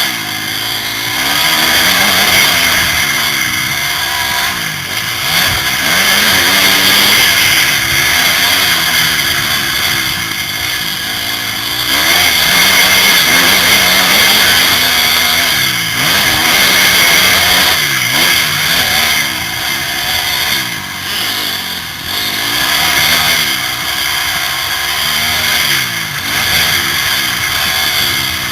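Motocross bike engine revving up and falling back again and again as it is ridden round the track, heard close from a helmet camera with heavy wind rush over the microphone.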